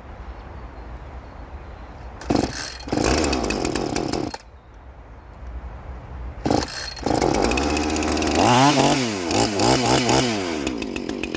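Two-stroke chainsaw cold-started: about two seconds in it fires and runs for a moment, then dies. A second start about six and a half seconds in catches, and the engine runs and is revved up and down a few times before settling.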